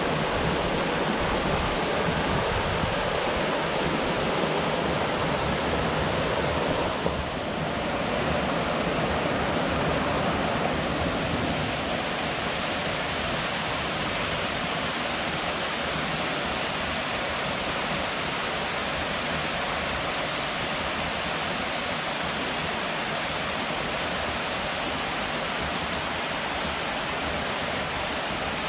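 Steady rush of water from a river flowing out below a dam, with water falling from the dam.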